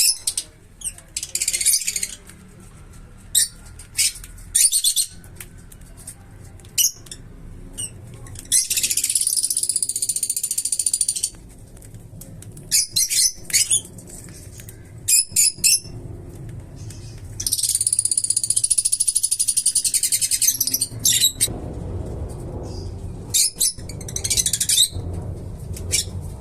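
Small pet parrots calling: short, sharp chirps scattered throughout, and two long, harsh chattering calls of a few seconds each, one about nine seconds in and one around eighteen seconds in.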